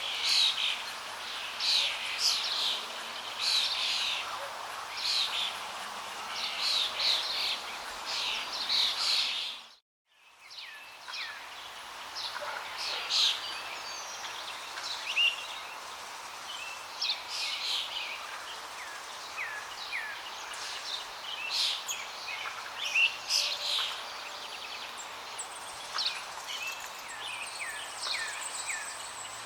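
Many small birds chirping and singing rapidly over a steady rush of flowing water. About ten seconds in, everything fades out for a moment and comes back, with fewer chirps afterwards.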